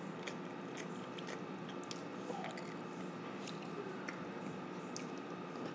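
A child chewing a mouthful of chicken and rice: many small, quick mouth clicks over a steady low room hum.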